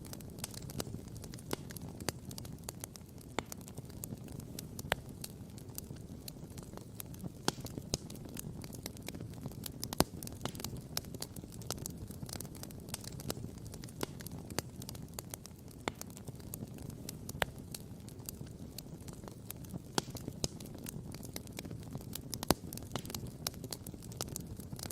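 Wood campfire crackling and popping: irregular sharp snaps, a few of them louder, over a steady low rumble.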